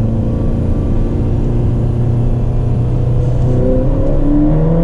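A 2019 Ferrari Portofino's twin-turbo 3.9-litre V8, heard from inside the car, running at a steady drone and then rising in pitch from about three and a half seconds in as the car accelerates.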